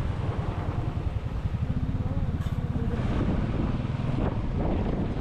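Motorcycle engine running on the move, a fast, even low exhaust beat, with wind on the microphone.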